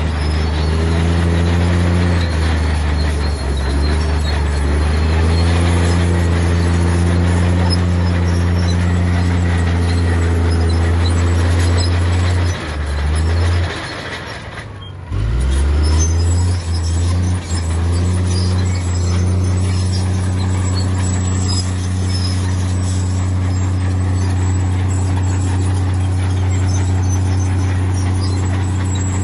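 Heavy diesel engine of earthmoving machinery running hard, its pitch bending up and down as it works. It drops away briefly about halfway through, then picks up again.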